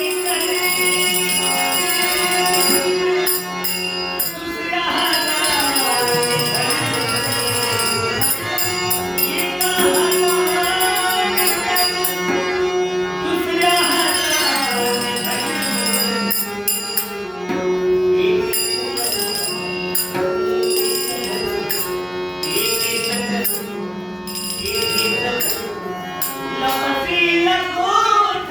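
Marathi devotional stage song: a man's voice sings melodic phrases over a steady harmonium drone, with hand-drum accompaniment.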